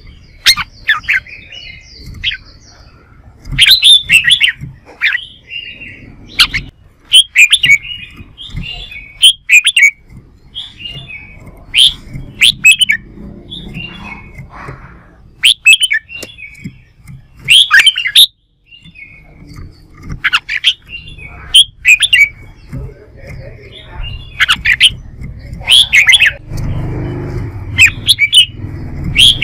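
Red-whiskered bulbul singing in short, loud, clear phrases that come every second or two, as in competitive singing. A low rumble runs under it near the end.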